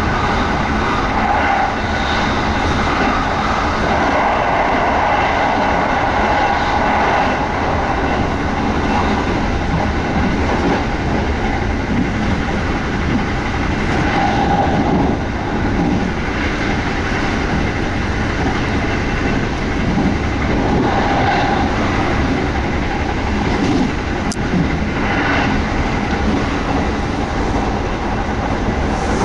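Kintetsu 1200 series electric train running at speed, heard from inside the passenger car: a steady rumble of wheels on rail with a clickety-clack over the rail joints. About halfway through, a level-crossing bell rings briefly as the train passes the crossing.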